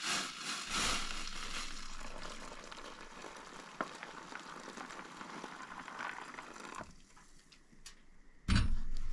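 Boiling water being poured from a pot into a freeze-dried meal pouch: a steady splashing hiss that slowly tapers off over about seven seconds. Near the end a sudden, louder handling noise starts.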